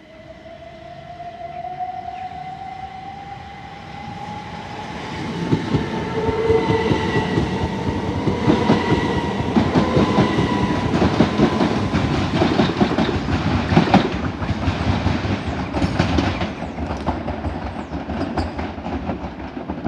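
Class 375 Electrostar electric multiple unit pulling away from the platform, its traction motors whining and rising steadily in pitch as it accelerates. The wheels clatter over rail joints, building up and getting louder as the train picks up speed.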